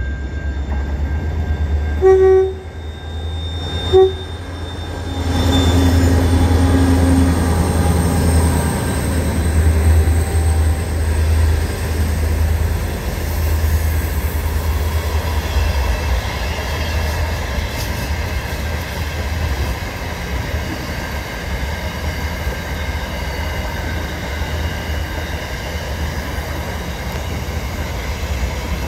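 Aurizon freight train: the horn sounds one short blast about two seconds in and a brief toot about two seconds later. The diesel locomotives then pass with a heavy low rumble, followed by a long string of freight wagons rolling by with a steady rumble and wheel noise.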